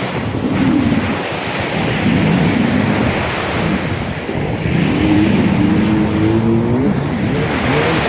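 Storm-driven sea surf washing onto the beach, with wind buffeting the microphone.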